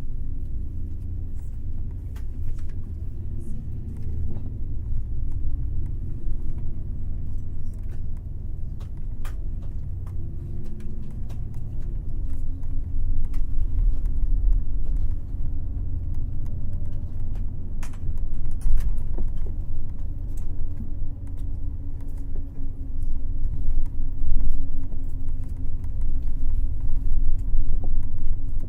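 Airport limousine bus under way, heard from inside the cabin: a steady low engine and road rumble, with an engine tone that wavers at first and holds steady from about twelve seconds in, and scattered light clicks and rattles.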